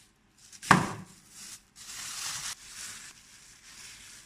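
A single sharp knock, then bursts of crinkly rustling and crackling, like plastic or paper being handled.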